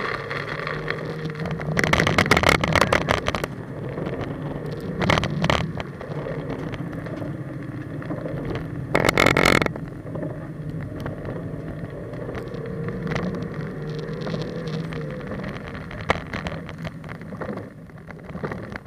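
Mazda Miata's four-cylinder engine running at varying revs through an autocross run on a wet course, broken by three loud bursts of rushing noise about 2, 5 and 9 seconds in.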